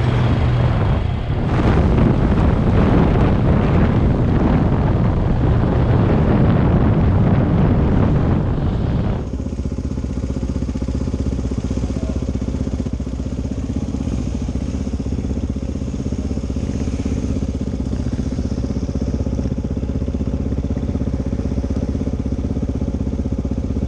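Dual-sport motorcycle being ridden: loud, rushing engine and road noise for about nine seconds, then an abrupt change to a motorcycle engine running steadily at idle.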